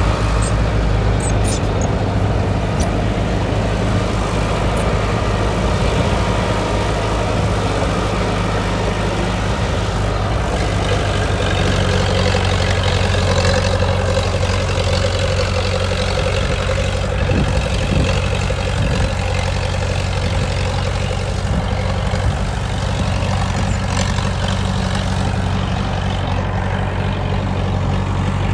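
Heavy diesel engine of an earthmoving machine running steadily with a low drone.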